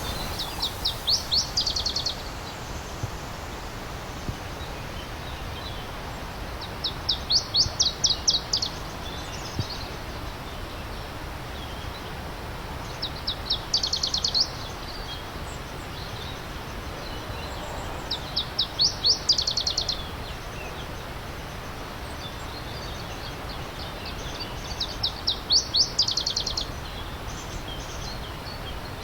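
A songbird singing a short song of rapid, evenly spaced high notes, repeated five times about every six seconds, over the steady rush of a stream.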